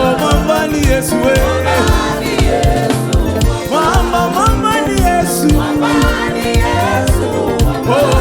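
Live gospel praise and worship music: voices singing a gliding melody over a band with heavy bass and a steady beat.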